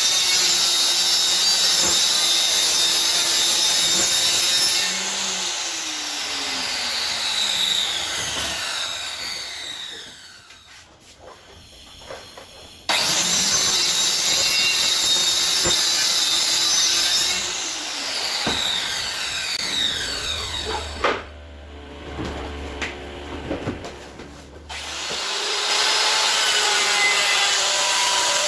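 Electric woodworking power tool, likely a saw, running at full speed, then switched off and winding down with a falling whine. It starts again abruptly about 13 seconds in, winds down again, and starts a third time near the end. A few knocks sound in the pauses.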